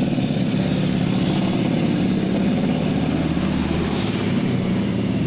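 A motor vehicle engine running steadily, with a low, even throb.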